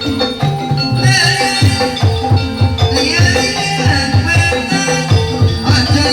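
Kuda lumping accompaniment music: hand drums beating about three strokes a second under ringing tuned percussion, with a wavering high melody line coming in about a second in.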